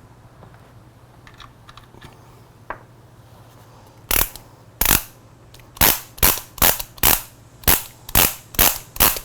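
Torque wrench clicking: a few faint handling clicks, then from about four seconds in loud sharp clicks, two single ones and then a steady run of about two to three a second, as the wrench is worked to the 30 Nm drain-plug setting at the top of its range.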